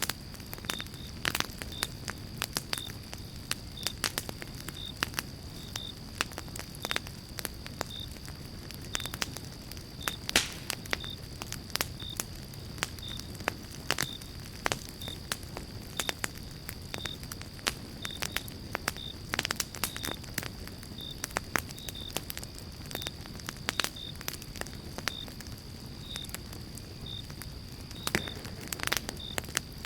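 Pine-log campfire crackling and popping: many irregular sharp snaps of varying loudness over a steady low rush of the flames. A steady high tone and a faint high chirp repeating about once or twice a second run underneath.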